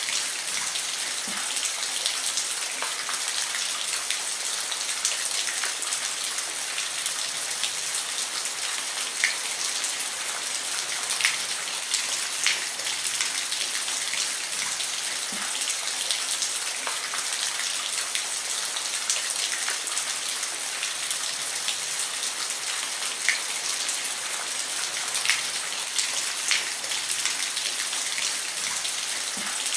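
Steady rain falling on a roof: an even hiss with scattered sharper drops ticking through it.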